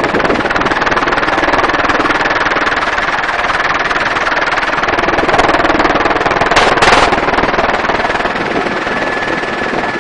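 Helicopter in flight: steady, loud rotor and engine noise heard from the open-door cabin, with a short louder rush of noise about seven seconds in.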